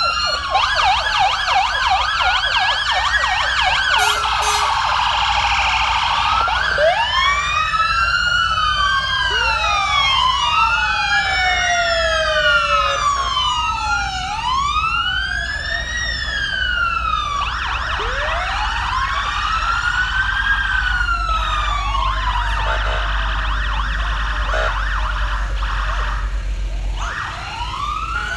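Several emergency-vehicle sirens sounding at once: slow wails rising and falling over a second or two, overlapping one another, with stretches of fast warbling yelp. A low rumble runs beneath them and swells near the end.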